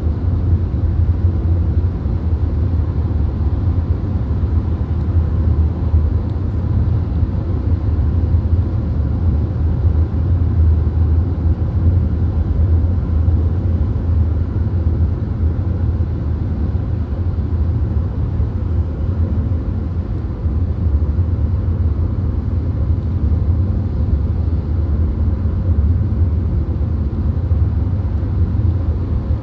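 VW Golf cabin at highway speed: steady low road and engine rumble with tyre and wind hiss, unchanging throughout.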